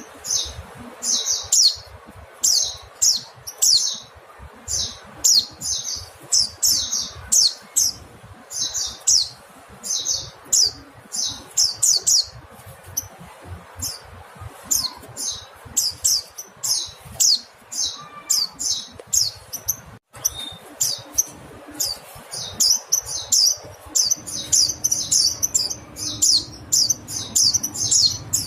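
Mountain white-eye (pleci montanus) calling: a fast, unbroken run of short, high chirps, several a second. A faint low hum comes in near the end.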